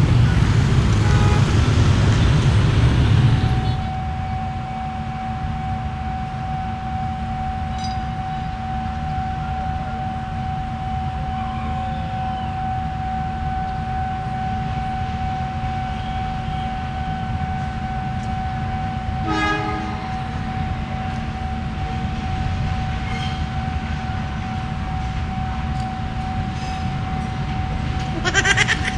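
Diesel train close by: loud running noise for the first few seconds that drops off suddenly, then a steady whine over a low hum, with a short horn toot about two-thirds of the way through.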